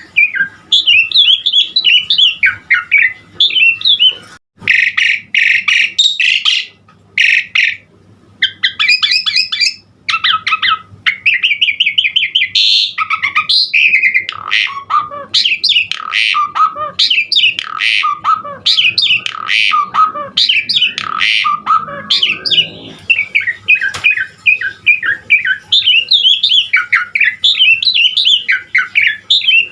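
Pied starling (jalak suren) singing a long, varied song of whistled glides mixed with harsh chattering notes, with only a couple of brief pauses. The bird is in full, vigorous song (gacor), packed with varied fill-in phrases.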